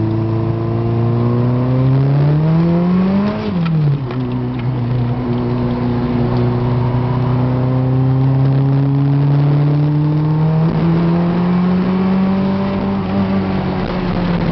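VW Polo G40's supercharged 1.3-litre engine pulling under load. The revs climb, then fall sharply about three and a half seconds in with a brief rush of noise as the throttle closes. After that they climb slowly and steadily again.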